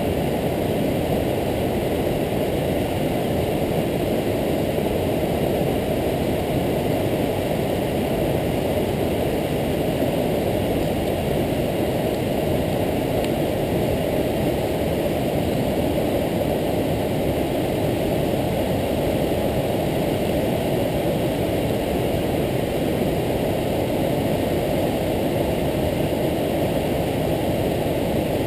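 Waterfall: a steady, heavy rush of falling water, deep and unchanging.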